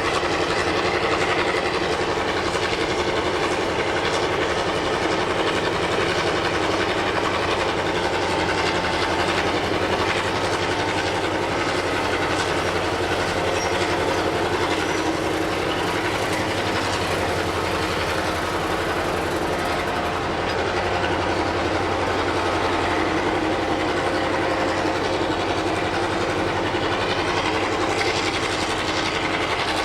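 Diesel-electric locomotive's engine running at a steady level through the whole stretch, with a dense stack of engine tones.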